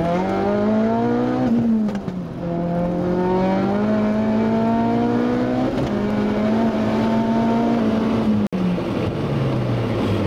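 Tuned turbocharged Ford Focus RS at full throttle, its engine climbing in pitch through the gears, with upshifts about two seconds in and near six seconds and a drop near nine seconds as the pull ends.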